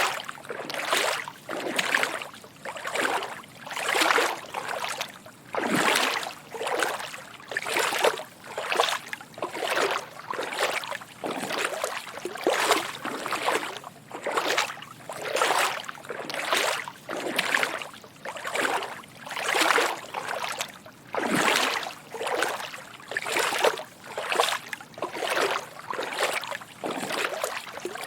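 Footsteps wading through shallow water: a steady rhythm of soft sloshing splashes, about one or two steps a second.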